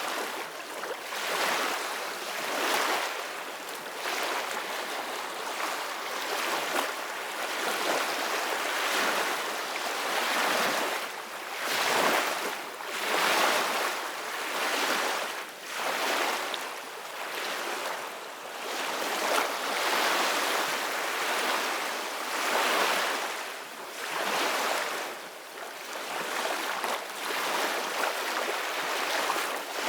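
Ocean waves breaking and washing on a shore, the surf swelling and ebbing every few seconds in a continuous rush.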